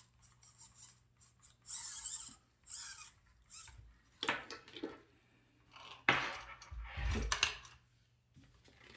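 Hands handling small hard parts: scattered rustling, light clicks and scrapes, loudest about six to seven and a half seconds in.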